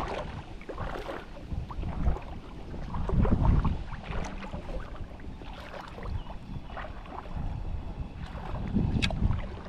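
Wind buffeting the microphone in gusts, a low rumble that swells and fades twice, with scattered small clicks and a few sharper ones near the end.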